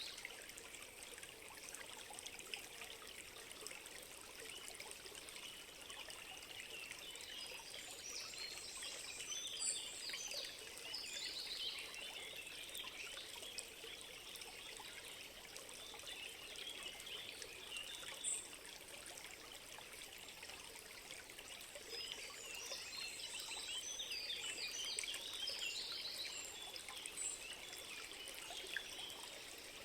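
A small stream trickling steadily, with clusters of short high bird chirps twice, about a third of the way in and again past the middle.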